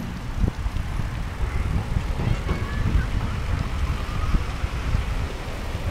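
Road traffic passing: an uneven low rumble of vehicles.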